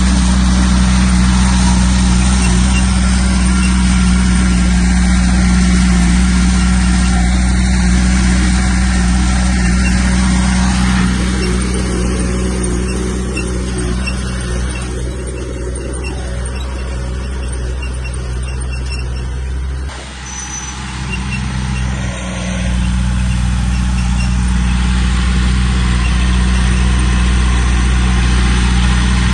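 Heavy-equipment diesel engine running steadily; it eases off from about a third of the way in, dips briefly about two-thirds through, then comes back up to full.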